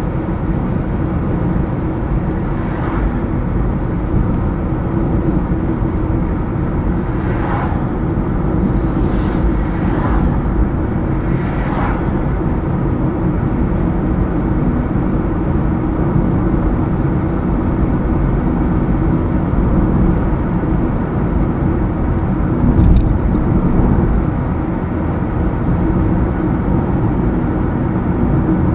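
A car driving steadily on a highway, with a constant low rumble of road and engine noise. A few fainter whooshing swells come in the first half, and a single brief sharp tick sounds about four-fifths of the way through.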